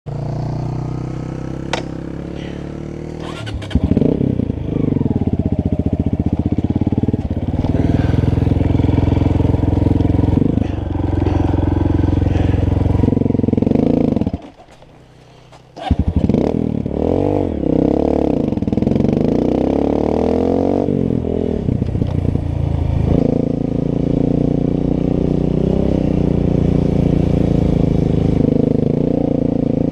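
Honda CRF dirt bikes' single-cylinder four-stroke engines running and being revved, with the pitch rising and falling. The engine sound drops away briefly about halfway, then comes back with a run of revving.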